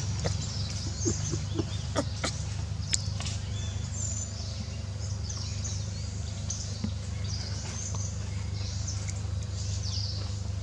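Birds chirping in scattered short, high calls over a steady low background rumble, with a few sharp clicks about two to three seconds in.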